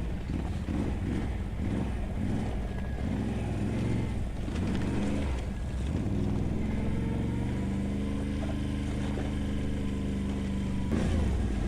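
ATV engine running while riding, its pitch rising and falling for the first several seconds, then holding fairly steady before picking up again near the end.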